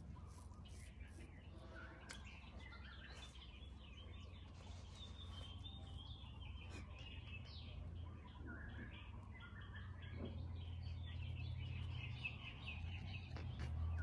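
Several small songbirds chirping and trilling, many short overlapping calls, over a steady low rumble.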